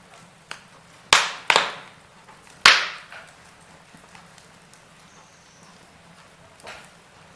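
Wood fire crackling: a few sharp pops and snaps, three loud ones within the first three seconds, then a quieter stretch with one softer pop near the end, over a low steady hiss.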